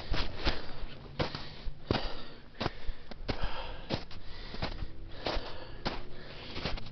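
A hiker's footsteps climbing a steep trail, about one or two steps a second, with breathing between them.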